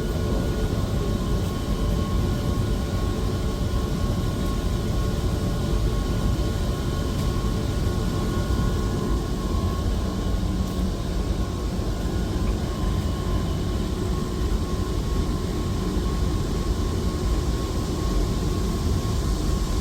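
Sirocco (centrifugal) exhaust fan running steadily: a continuous whir over a low rumble, with a faint steady hum tone.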